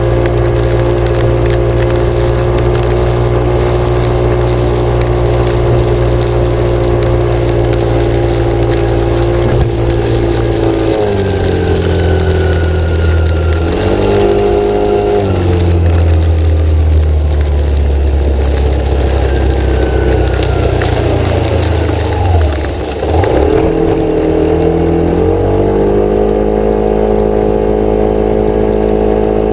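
A vehicle engine running: a steady engine note that drops about a third of the way in, moves up and down for a while, dips briefly past the two-thirds mark, and settles back to a steady note near the end.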